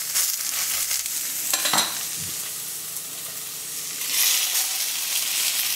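Ham-wrapped scallop skewers sizzling in olive oil in a hot frying pan, with a brief knock against the pan about a second and a half in. The sizzle grows louder about four seconds in as more skewers go into the oil.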